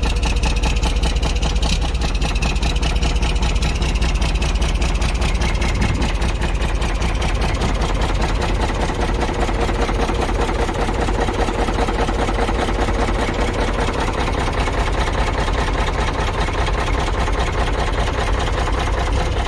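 Kenworth truck's Caterpillar 3406E inline-six diesel idling steadily just after a cold start in freezing weather, with a deep, even rumble.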